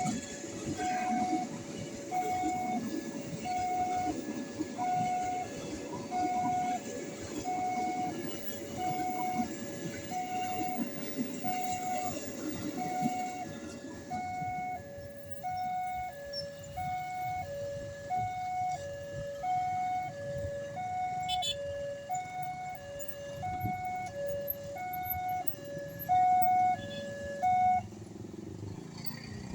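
Railroad level-crossing warning alarm sounding a repeating two-tone electronic chime, a higher tone then a lower one about once a second, which stops near the end. A low rumble underneath fades about halfway through.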